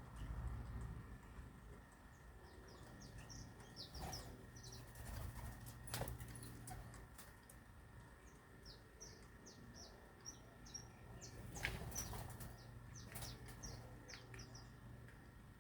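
Small birds chirping in quick runs of short, high chirps, with a few sharp clicks and a steady low hum underneath.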